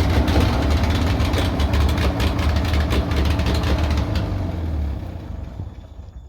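Oliver 70 tractor's six-cylinder engine running rough, then losing power and dying out over the last two seconds as it runs out of fuel.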